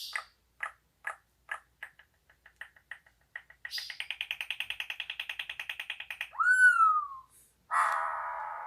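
A songbird sold as a 'kutilang Australia' singing: a run of short chirps about two a second, then a fast trill, a loud down-slurred whistle, and a harsh rasping note near the end.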